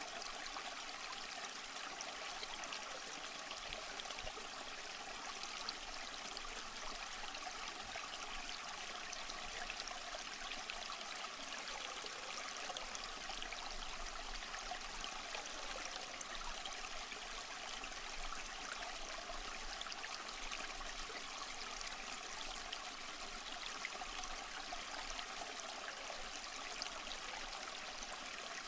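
Small stream flowing over rocks: steady trickling and babbling water with many tiny splashes, unchanging throughout.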